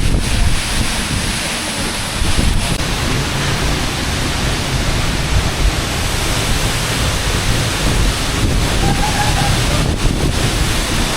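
Wind buffeting the microphone over a loud, steady rushing noise, heaviest in the low rumble.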